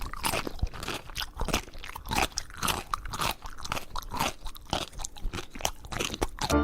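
Crunchy chewing: something hard being bitten and chewed, an irregular run of crunches several times a second.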